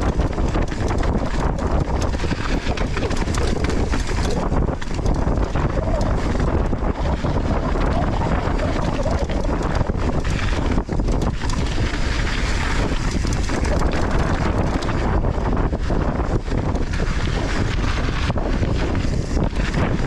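Wind buffeting the microphone of a mountain bike descending at speed, over a steady rumble of tyres on loose volcanic soil, with frequent short knocks and rattles from the bike on bumps.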